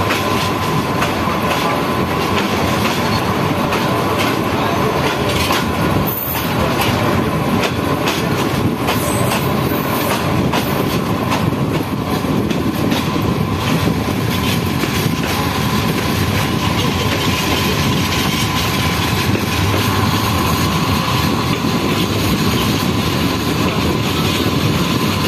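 Bangladesh Railway intercity passenger carriages rolling along the rails close by: a steady loud rumble with wheels clattering over the rail joints and a steady high whine.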